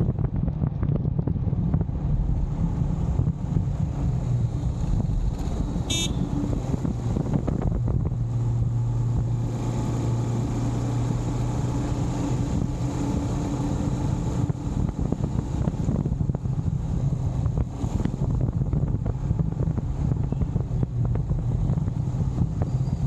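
Wind buffeting a motorbike-mounted action camera's microphone over the steady running of the motorbike's engine in traffic, the engine tone steadier and stronger for a few seconds in the middle. A brief high-pitched sound about six seconds in.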